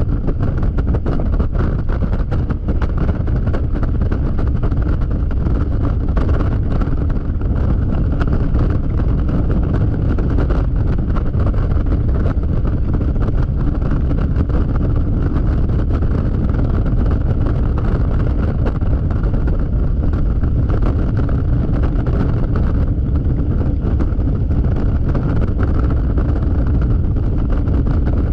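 Steady wind rush on the microphone at freeway speed, over the steady drone of a Yamaha XMAX scooter's single-cylinder engine.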